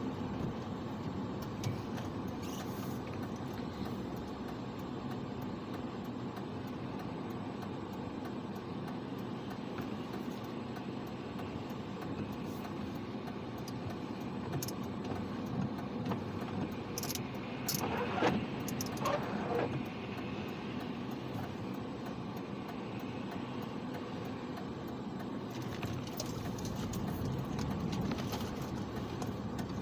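Steady road and engine noise of a car being driven, an even rumble and hiss, with a short cluster of clicks and rattles a little past the middle.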